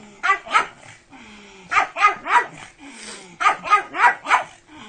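Pug barking in short, high barks in quick bursts: two near the start, three around the middle, then four in a row near the end.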